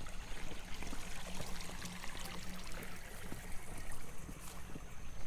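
Water running in a stream or irrigation channel, a steady trickling rush.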